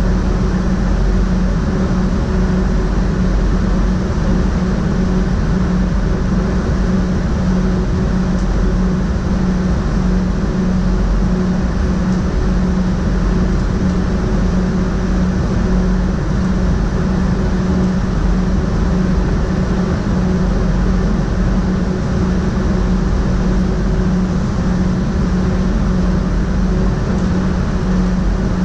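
SGMm Sprinter electric multiple unit running at a steady speed, heard from inside the driver's cab: a constant rumble of wheels on the track with a steady low hum over it.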